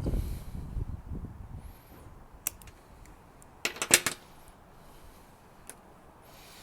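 Bench handling bumps, then sharp clicks with a tight, loud cluster about four seconds in, as a length of replacement rubber fuel pipe is cut to size.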